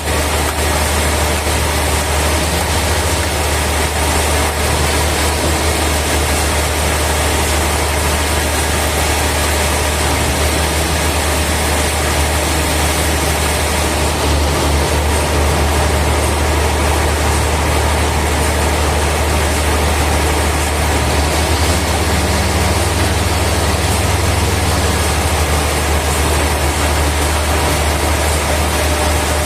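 Heavy machinery running steadily: a constant low hum under an even noisy wash, with no change in pitch throughout.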